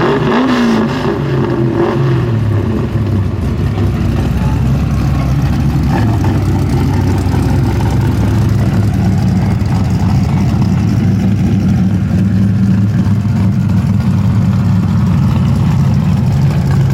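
A car engine, typical of a V8 muscle car, idling steadily with an even low note, with a brief change in pitch in the first second or so.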